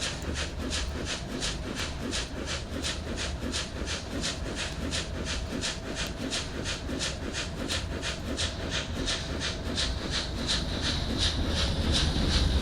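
Indian passenger train running, a steady low rumble with even, rhythmic clicking about three times a second. A high whine rises in near the end.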